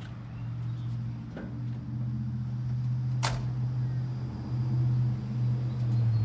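International 4700's DT466E diesel engine running with a steady low hum that grows somewhat louder, as the truck is about to be moved. A single sharp click comes about three seconds in.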